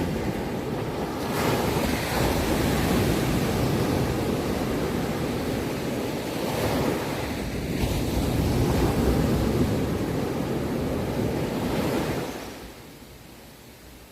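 Sea surf: a long wave rushing and washing in, a steady heavy roar of water that falls away to a quieter wash about twelve seconds in as the wave recedes.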